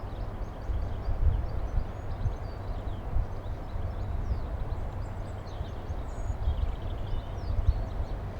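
Outdoor lineside ambience: small birds chirping over a low, uneven rumble with occasional thumps.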